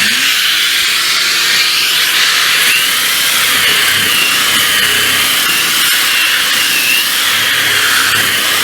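Electric power sander switched on and running steadily on a wooden board, with a high motor whine that wavers slightly in pitch.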